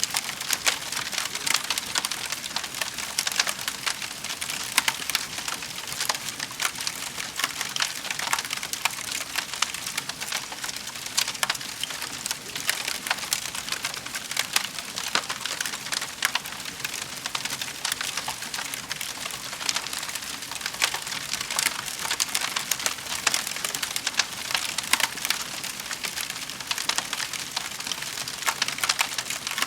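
Wood fire crackling in a fireplace: a steady hiss filled with many small, sharp pops and snaps.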